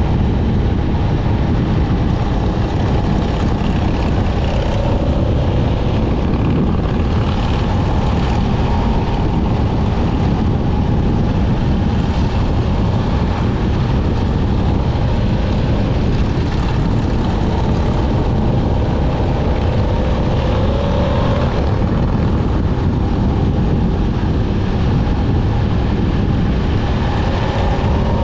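Motorcycle engine running steadily at riding speed under loud wind rush on the microphone, its pitch wavering slightly as the speed changes.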